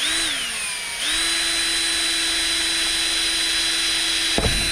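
Power drill pre-drilling a pilot hole: the motor's whine drops in pitch in the first second, then picks back up about a second in and runs steady at full speed, with a few low knocks near the end.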